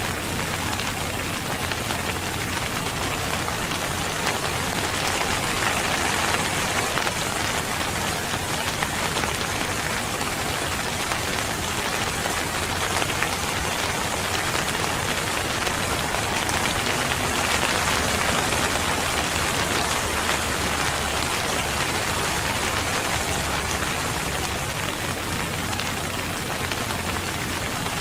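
Steady rainfall: a dense hiss of rain with many fine drops pattering on a surface, swelling slightly in intensity now and then.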